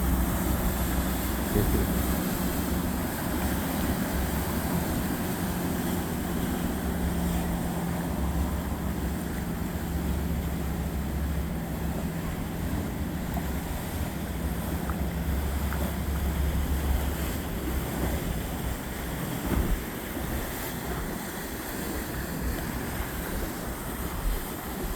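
Boat engine running steadily as a boat passes, over rushing water and wind buffeting the microphone; the engine drone fades about two-thirds of the way through.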